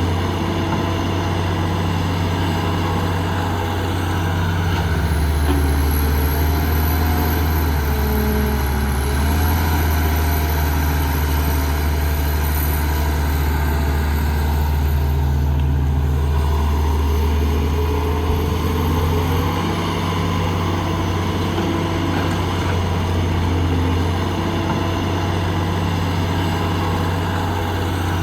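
Diesel engine of heavy construction machinery running steadily under load. Its note drops lower about five seconds in and rises back near the end, with a thin high whine over the middle part.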